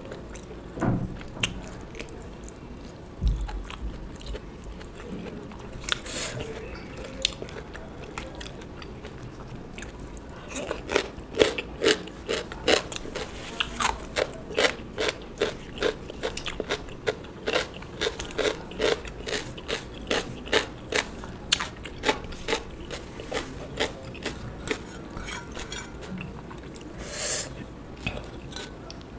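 Close-miked eating: mouth chewing and crunching on crisp food, with a steady run of sharp crunches at about two to three a second through the middle of the stretch. A few soft knocks and a brief rustle come before the crunching starts.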